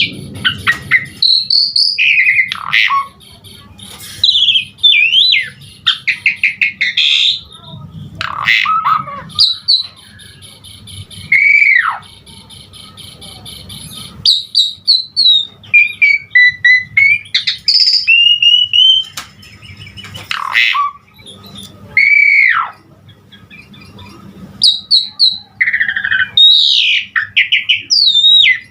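Pied starling (jalak suren) singing a loud, varied full song: rapid trilled and chattering phrases mixed with clear whistles, several of which slur steeply downward, in bursts with short pauses between.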